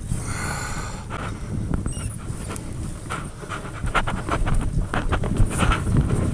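A person breathing hard, panting with effort during a long fight with a big redfish, over wind rumbling on the microphone and scattered clicks and knocks.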